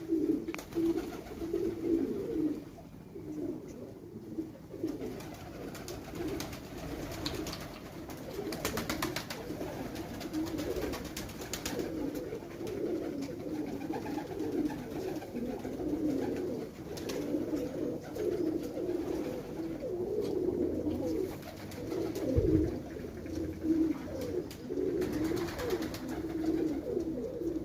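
Several domestic pigeons cooing continuously, their low calls overlapping. A few short clicks come through the cooing partway through.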